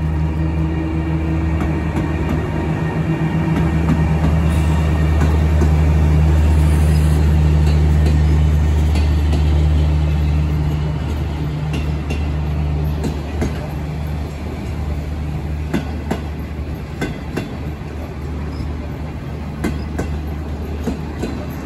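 A train passing: a deep steady drone from the locomotive swells to its loudest around the middle and then fades, while sharp wheel clicks over the rail joints come through in the second half.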